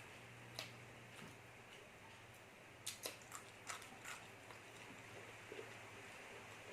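Quiet eating: a handful of faint clicks and small mouth sounds, most of them about three to four seconds in, over a steady low hum.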